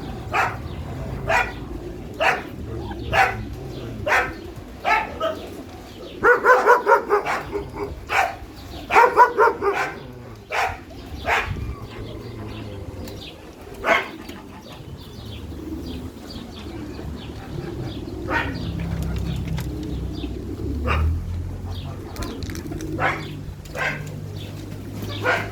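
A dog barking repeatedly, single barks about once a second, with two quicker runs of barks near the middle and only scattered barks later, over a steady low rumble.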